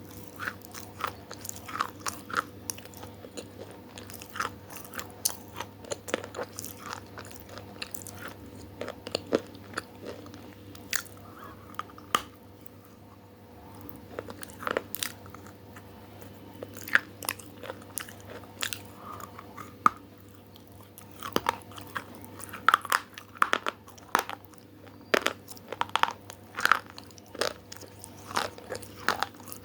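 Close-miked eating of crunchy food: irregular sharp crunches of biting and chewing, with a short lull a little before halfway and a denser run of crunches in the last third, over a faint steady hum.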